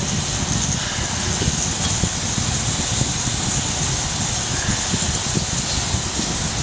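Wood fire burning in a Picogrill 398 fire stand: a steady hiss over an uneven low rumble, with small irregular crackles.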